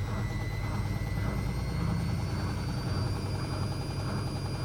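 Zanussi ZWC 1301 front-loading washing machine's motor turning the drum as it tries to go into spin after detecting an unbalanced load. A steady hum with a regular pulse from the turning drum and a faint high motor whine.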